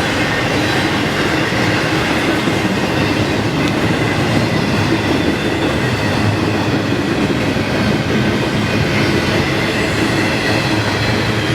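Loaded freight train cars rolling past, a steady loud noise of steel wheels running on the rails.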